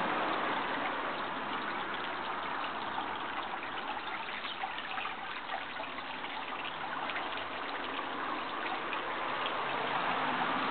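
Water trickling and running steadily, with many small splashing clicks through the middle of the stretch.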